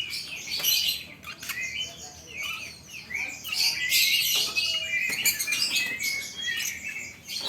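Many caged songbirds chirping and calling at once, a dense overlapping chorus of short high chirps and trills.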